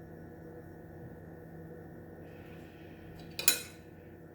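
A kitchen utensil clinks once against a dish about three and a half seconds in, ringing briefly over a low, steady room hum.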